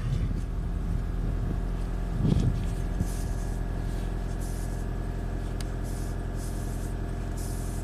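A 2012 Toyota Camry Hybrid's 2.5-litre four-cylinder petrol engine idling steadily, running to recharge the repaired high-voltage battery pack at about 12 amps.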